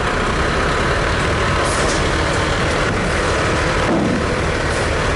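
Heavy diesel engines running steadily: a Kenworth T880 dump truck tipping its load with the PTO engaged, pushed along by a D6 dozer, with a few short air-brake hisses as the truck's brake is ridden.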